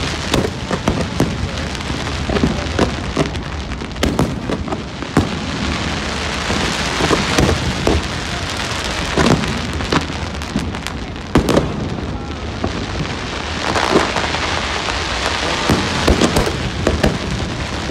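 Aerial fireworks display: a dense, steady crackle of many small bursts with frequent sharp bangs over it, the crackle swelling twice.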